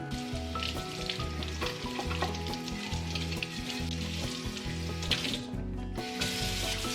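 A steady sizzling hiss that drops out briefly about five seconds in and then returns, over background music with a steady bass line.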